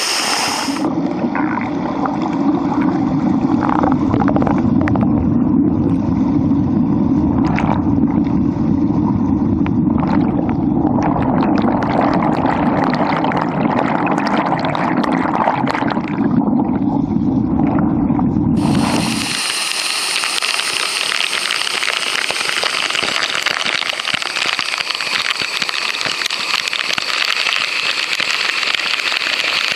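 Waterfall water pouring down: first a heavy, muffled low rush with splashing, as if heard from right under the falling water, then about nineteen seconds in a sudden change to the bright, even hiss of the falls heard in the open.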